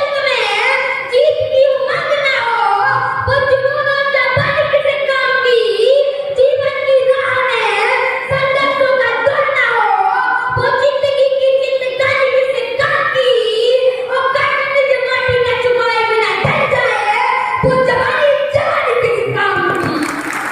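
A child's high voice singing verse in a long-held, wavering melody.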